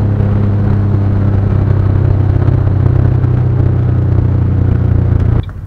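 Turbocharged Ford Mustang GT 4.6-litre three-valve V8 running loudly at a nearly steady engine speed, heard from inside the cabin; the engine note drops away suddenly about five seconds in.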